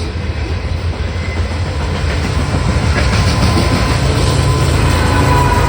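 Freight train of coal cars rolling past on the mainline: a continuous rumble of steel wheels on rail with clacking over the joints, growing a little louder partway through.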